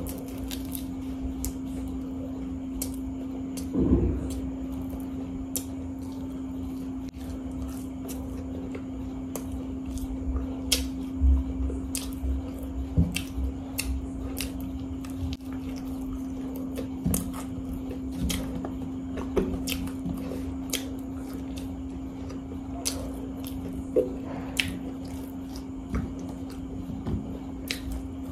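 A person chewing and biting fried samosas close to the microphone: many short crisp crunches and mouth clicks, over a steady low hum.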